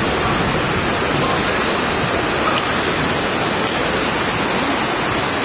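Heavy rain during a storm: a steady, dense hiss.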